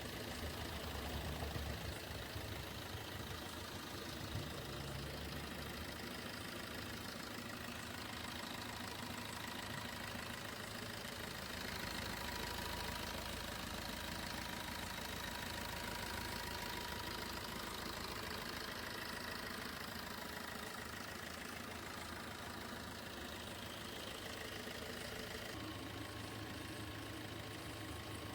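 Vehicle engine idling steadily, with a faint steady whine on top.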